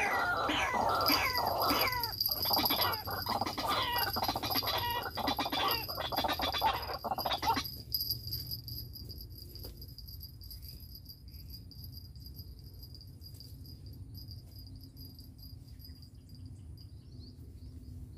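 White-breasted waterhen (ruak-ruak) calling: a loud, rapid run of harsh repeated notes that cuts off suddenly about seven and a half seconds in. Insects keep up a steady high trill throughout.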